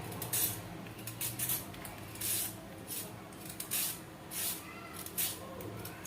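Vegetable peeler scraping down a raw carrot in a series of short strokes, a little more than one a second, as the skin is peeled off.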